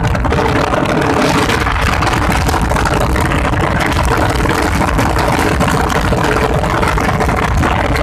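A motor vehicle's engine running steadily with a constant hum, under a heavy, unsteady low rumble.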